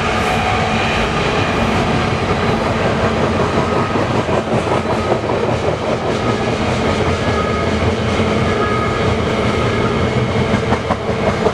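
Double-stack freight train rolling past close by, a steady loud rumble of steel wheels on rail with faint squealing tones, and wheels clicking over rail joints more plainly near the end.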